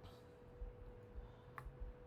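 Near silence: a faint steady hum with two soft clicks about a second and a half in and near the end.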